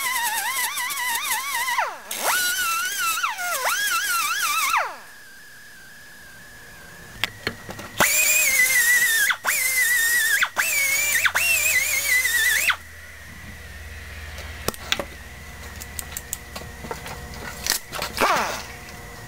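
Angle grinder grinding down the steel of a scissor jack, in two bursts of several seconds, its whine dipping and wavering in pitch as it bites. Quieter clicks and handling noise follow.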